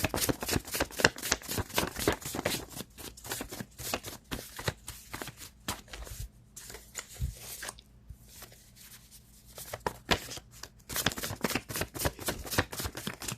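A deck of cards being shuffled and handled by hand: quick, irregular riffling and slapping, with a couple of short pauses.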